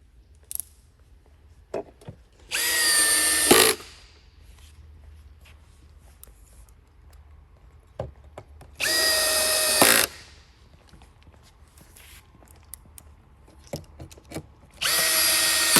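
Power drill driving screws into a particle-board desk panel, in three short runs of about a second each, a few seconds apart.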